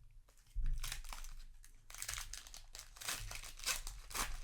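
Plastic Magic: The Gathering booster pack wrapper crinkling and crumpling as it is handled, in irregular rustling clusters.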